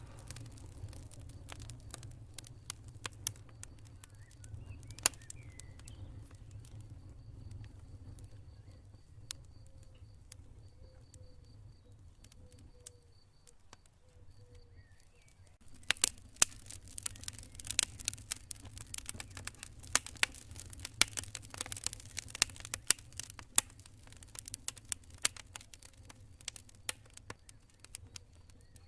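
Campfire burning, crackling with many sharp pops over a low steady rumble; the crackling gets denser and louder about halfway through. A cricket chirps steadily through the first half.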